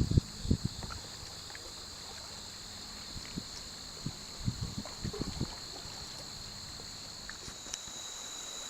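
Canoe paddles knocking against an aluminium or plastic hull and dipping in the water: a cluster of dull thuds at the start and another about four to five seconds in. A steady high buzz of insects runs underneath.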